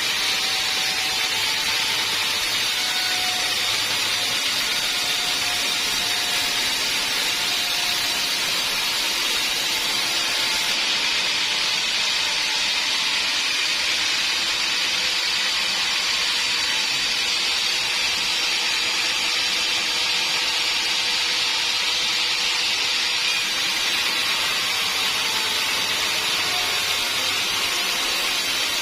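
Sawmill bandsaw running through a log: a steady, high hiss with faint whining tones underneath, holding an even level throughout.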